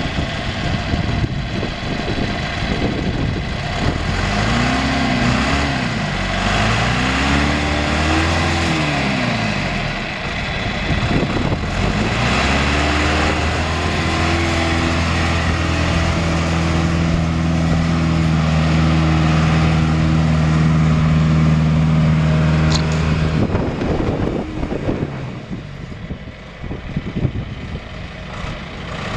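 John Deere 410 loader backhoe engine revving up and back down twice, then held at high revs for about ten seconds before dropping back to a lower, rougher running.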